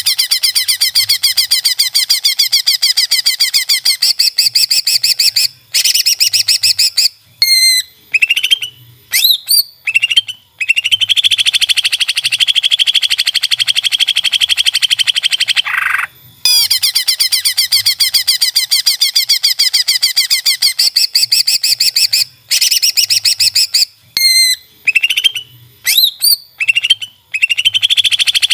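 Cucak ijo (green leafbird) song: long, very rapid buzzy trills alternating with short up-and-down whistled notes. The same sequence comes round again about halfway through, as a looped tutor recording.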